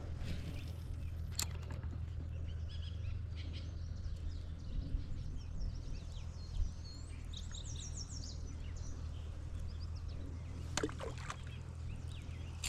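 Lakeside outdoor ambience: a steady low hum underneath, with a bird calling in a quick series of high chirps in the middle and a few short clicks.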